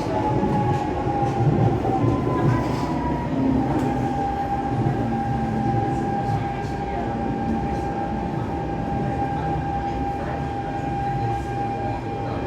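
Siemens C651 metro train heard from on board while running: a steady rumble of wheels on track with a few clicks, and a steady whine from its GTO-VVVF traction equipment that dips slightly in pitch in the first couple of seconds, then holds.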